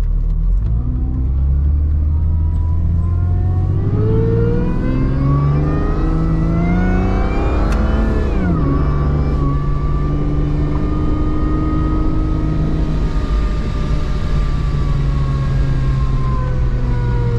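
Supercharged 4.0-litre inline-six of a Jeep Grand Cherokee ZJ at wide-open throttle, heard from inside the cabin. The engine note climbs for about eight seconds, drops sharply as the transmission shifts up, then holds steady and eases off near the end.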